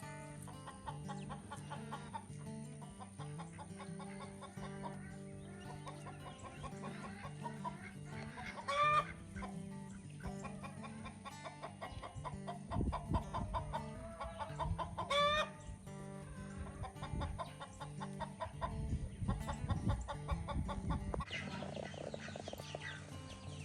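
Chickens clucking, with two loud rising squawks about nine and fifteen seconds in, over background music with a steady repeating bass pattern.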